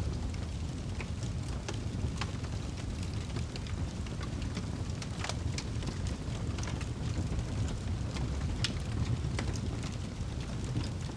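Wood fire burning in a fireplace: a steady low rumble of the flames with frequent sharp crackles and pops, irregularly spaced.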